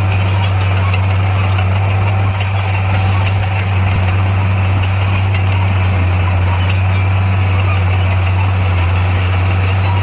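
Diesel engine of heavy earthmoving equipment running steadily with a constant low drone.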